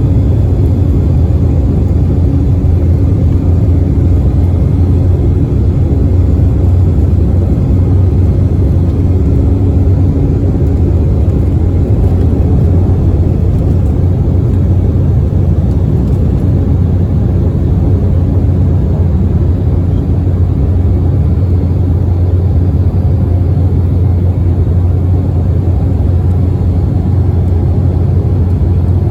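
Embraer 195LR jet airliner's turbofan engines running at takeoff power as a loud, steady rumble that holds unchanged throughout.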